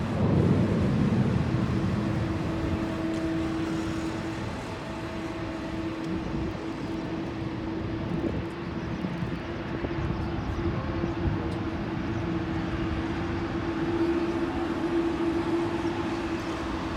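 Airbus A380's jet engines running with a steady hum, a louder rumbling swell at the start.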